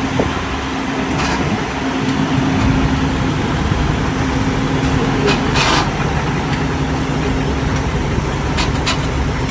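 School bus engine running at idle, with noise from a worn drive belt that needs changing. A few short noisy bursts come about halfway through.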